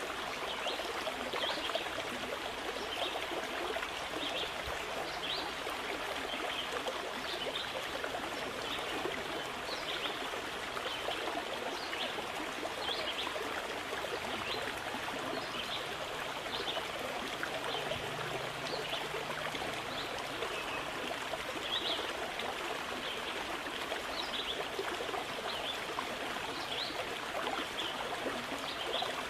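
Water of a stream flowing steadily, with many small trickling splashes.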